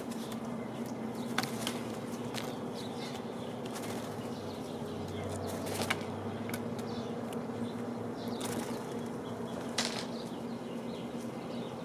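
Outdoor bird feeder ambience: a steady low hum under scattered short clicks and brief chips from birds at the feeder, with a handful of sharper ones about 1.5, 6 and 10 seconds in.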